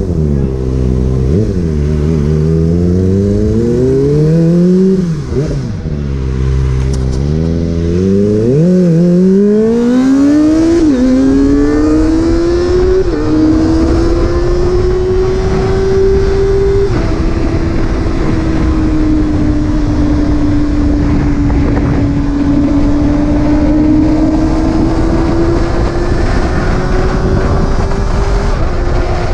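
Motorcycle engine accelerating up through the gears: its pitch climbs and drops back at each of several upshifts, then it settles into a steady cruise. A constant rush of wind and road noise runs under it.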